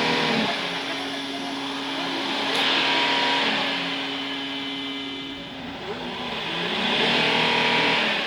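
Kia Mohave diesel engine running, revved up twice, with swells about three seconds and seven and a half seconds in.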